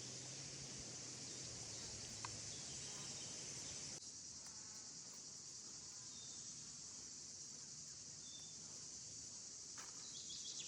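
A steady, high-pitched chorus of insects, with one faint click about two seconds in.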